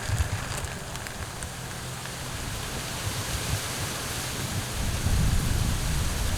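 Wind buffeting the microphone outdoors: an uneven low rumble over a steady hiss, growing stronger near the end.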